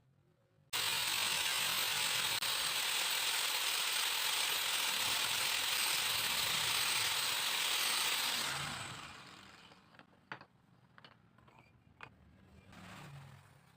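A handheld power tool running steadily at speed, starting abruptly and then winding down over a second or so, followed by a few sharp clicks or taps.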